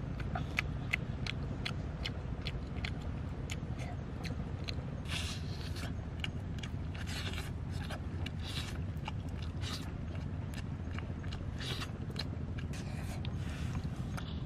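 Close-up eating sounds: irregular wet clicks and smacks of lips and chewing, several a second, with a few longer rustling smears as fish meat is picked apart by hand. A steady low rumble runs underneath.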